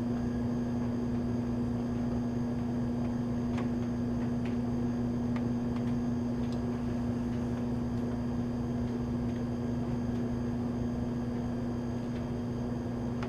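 Steady electric-motor hum from a running machine-shop machine, an even drone with a few faint light ticks.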